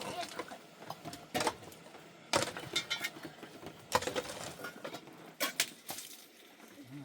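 A handful of sharp, irregularly spaced knocks and clinks, about five, as of hard objects being handled and set down.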